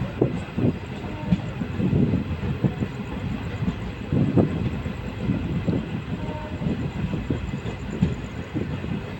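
LHB passenger coach running on the track: a steady low rumble of wheels on rail with irregular knocks over the joints, one louder knock about four seconds in.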